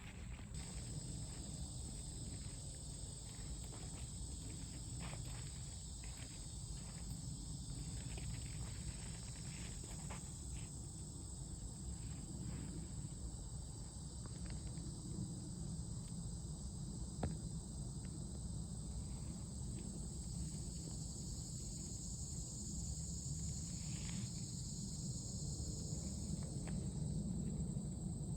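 Insects, crickets or similar, calling in a steady high-pitched drone, over a constant low rumble, with scattered faint clicks and ticks.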